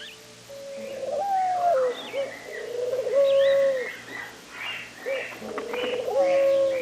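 Birds calling: a series of long, fairly level calls, several bending in pitch at the start or end, with shorter, higher chirps among them.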